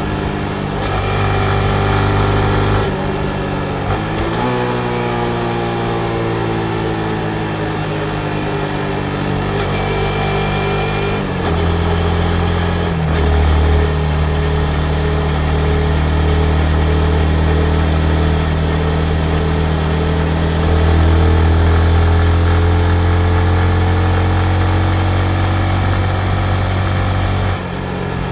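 Yamaha MT-15 motorcycle's single-cylinder engine running under way, its pitch falling slowly, shifting abruptly several times as revs change, holding steady for a long stretch, then rising near the end.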